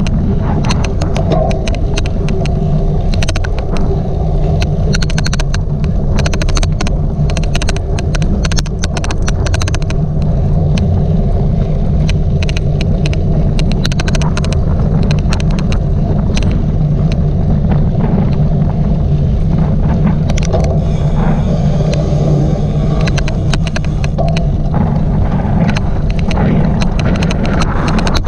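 Wind rushing over the microphone of a camera riding along on a cyclocross bike in motion, with frequent irregular sharp clicks from the bike or its camera mount, the odd clicking noise, thickest in the first half.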